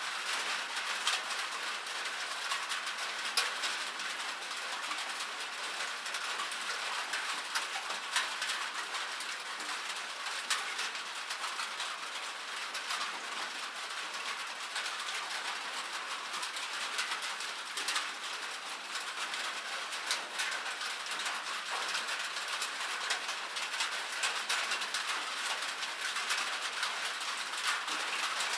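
Rain falling steadily, a dense patter of drops with many sharp individual ticks.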